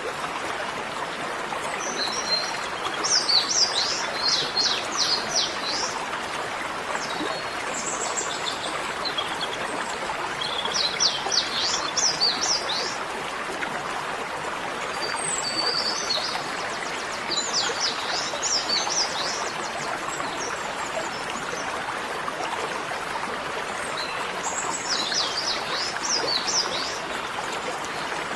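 A songbird singing in four bouts of quick, repeated high chirping notes, over a steady even hiss.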